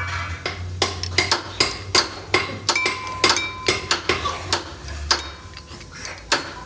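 Metal parts or tools clinking and tapping against metal, a series of sharp strikes about two or three a second, some with a short ring, over a steady low hum.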